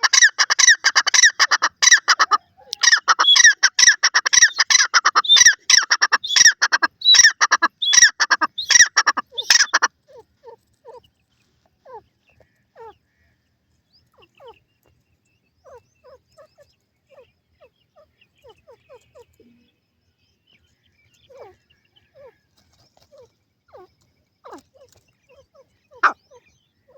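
Francolin (teetar) calling: a loud, rapid run of repeated calls for about the first ten seconds, with a short break near the start, then only faint scattered chirps and one short loud call near the end.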